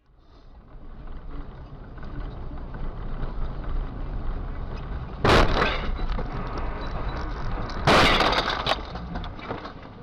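A car collision: two loud crashes about two and a half seconds apart, with breaking glass, over a steady low rumble of vehicle and road noise.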